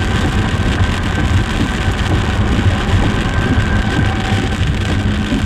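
Steady rumble of road and engine noise inside a moving vehicle, with a faint steady whine above it.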